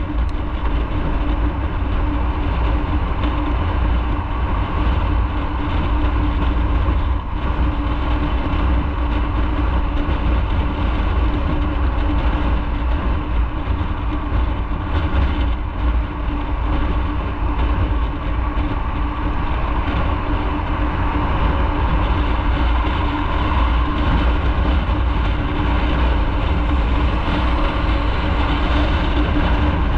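Motorcycle riding at a steady pace, its engine running evenly under a heavy, steady low rumble of road and wind noise.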